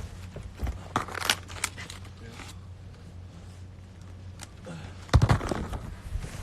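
Handling noise: scattered clicks and rustles, then a louder cluster of thumps about five seconds in, over a steady low hum.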